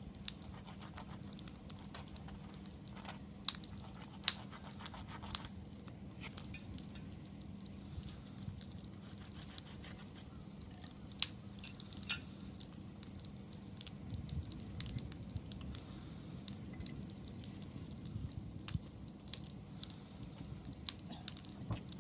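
Wood campfire crackling, with scattered sharp pops, the loudest about four seconds and eleven seconds in, over a steady low background.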